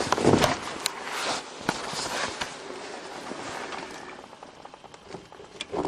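Rustling and scattered clicks of hands at work, fading toward the end; no engine running.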